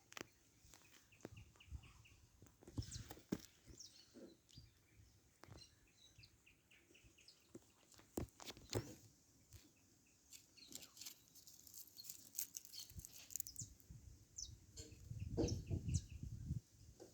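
Faint bird calls: short runs of quick, evenly spaced chirps, with scattered clicks and a low rumble near the end.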